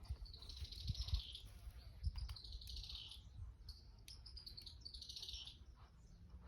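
A small bird singing three short, high trilled phrases, a second or two apart, over a low rumble.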